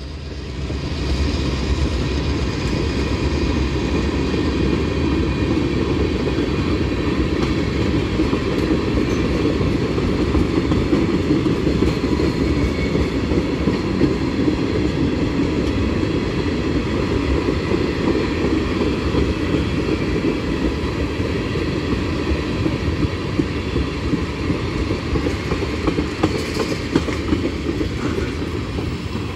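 Freight train of tank cars rolling steadily past at close range, its wheels running on the rails in a continuous rumble that rises about a second in.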